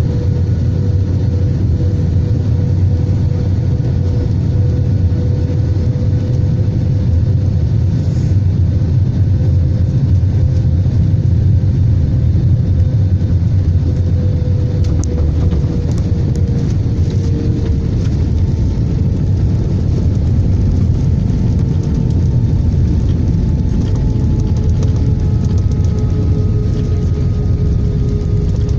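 Airbus A320 airliner noise heard as a steady, loud low rumble, with a faint engine hum that drifts slowly lower in pitch.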